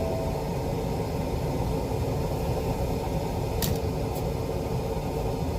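Steady blowing of a semi truck cab's heater fan, with two short clicks just past the middle.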